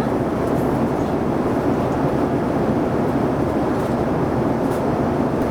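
Steady roar of airliner cabin noise inside a JAL Airbus A350 in flight, even and unchanging, with its weight in the low and middle range.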